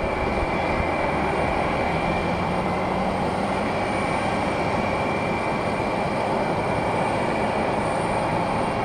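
Jet airliner engine noise, a steady roar with a thin, high whine laid over it, typical of a jet at high power on its takeoff roll.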